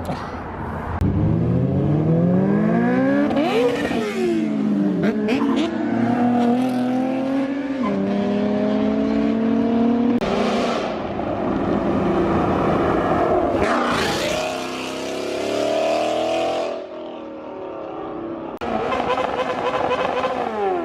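Sports cars accelerating hard out of a car meet, one after another. Their engines rev up in rising sweeps through gear changes, with a few sharp cracks, and the pitch falls away near the end as a car passes.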